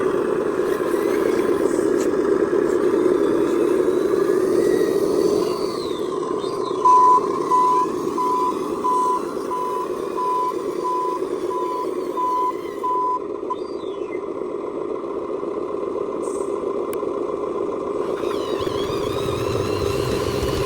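Reversing beeper on an RC dump truck: about ten short, evenly spaced beeps, roughly one and a half a second, starting about seven seconds in and stopping about thirteen seconds in, over a steady hum.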